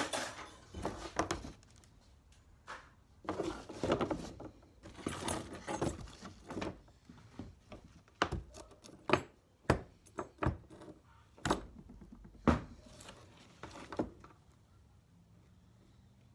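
Small pieces of scrap metal being handled and tossed into buckets: irregular clinks, clanks and rattles with a dozen or so sharp knocks, stopping a couple of seconds before the end.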